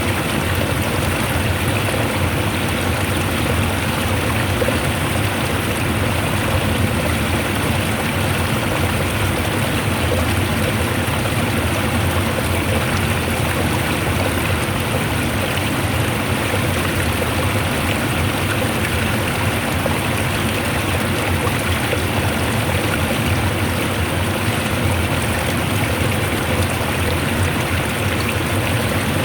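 Water rushing and flowing strongly in a steady, unbroken wash of sound.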